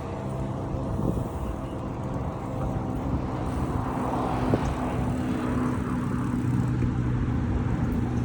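Road traffic running steadily, with engine hum and a vehicle passing about four to five seconds in.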